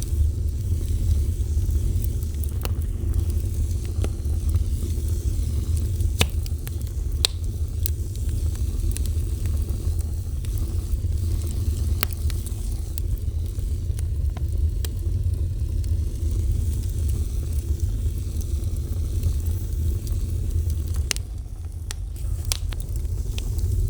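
Fire burning: a steady low roar with scattered sharp crackles and pops, a few seconds apart.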